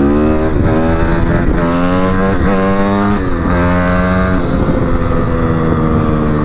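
Dirt bike engine running under throttle. Its pitch climbs and drops back several times in the first few seconds, then holds steadier near the end.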